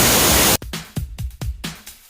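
Loud, steady rush of a waterfall in heavy flow, cut off suddenly about half a second in by electronic dance music with a regular kick-drum beat and hi-hats.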